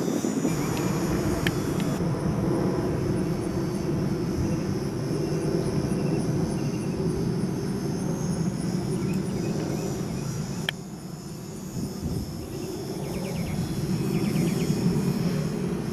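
Hobbyzone Super Cub RC plane's electric motor and propeller running in flight. Its sound falls away about two-thirds of the way through, then builds again. Crickets chirp steadily throughout.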